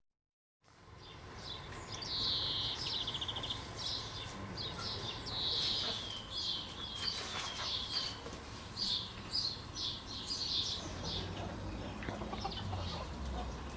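Outdoor birdsong: a string of short chirps and trills from small birds, over a faint low steady hum.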